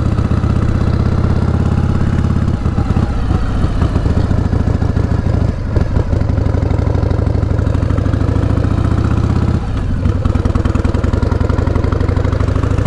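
1988 Harley-Davidson Heritage Softail's 1340 cc Evolution V-twin running under way. The note dips briefly twice, then climbs in pitch as the bike picks up speed.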